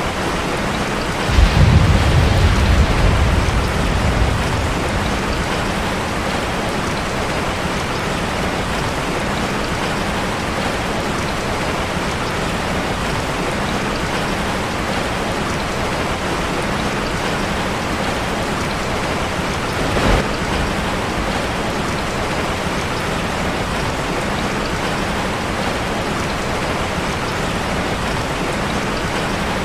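Steady heavy rain drumming on a metal roof. About a second in, a roll of thunder breaks in suddenly and rumbles for a couple of seconds, and a short thud comes about twenty seconds in.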